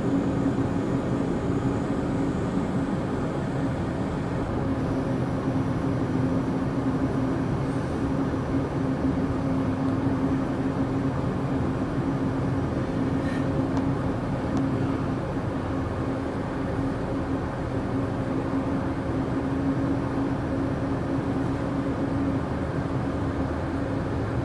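Amtrak Empire Builder passenger train running, heard from aboard: a steady rumble of the moving train with a steady low hum underneath.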